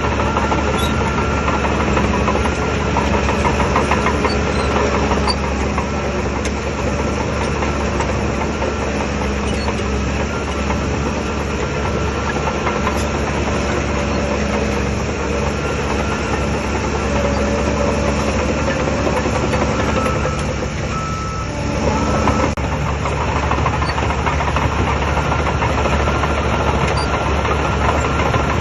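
Bulldozer's heavy diesel engine running steadily under load. It eases off briefly about 21 seconds in, then picks up again.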